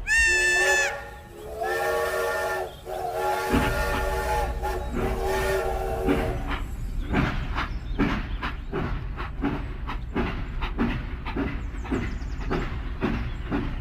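Steam-train whistle sounding as a chord of several notes, two long blasts, while a rhythmic chuffing with a low rumble starts up and runs on after the whistle stops.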